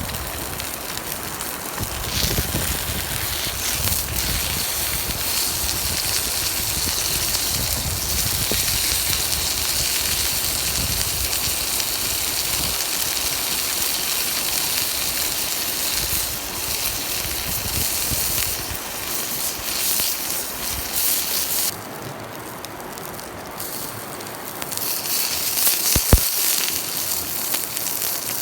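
Steady rush of a mountain stream with a wood campfire crackling, and one sharp snap near the end.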